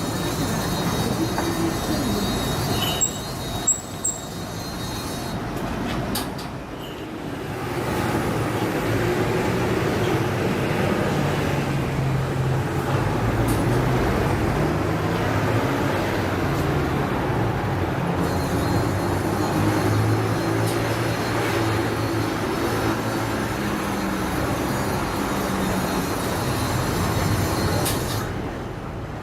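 Street traffic noise with a heavy vehicle's engine running through the middle, its low pitch shifting, and a couple of short clicks about three seconds in.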